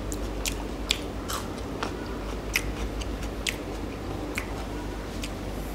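A person chewing food close to the microphone, with short wet mouth clicks and smacks coming irregularly about twice a second.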